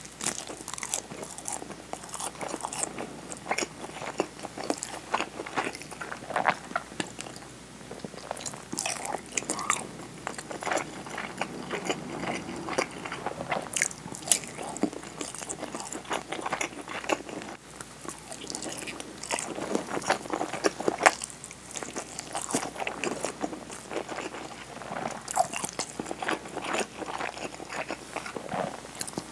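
Close-miked eating: bites into a nori-wrapped rice ball and chewing, with many short, irregular crisp crackles as the seaweed tears; midway, softer chewing of rolled omelette.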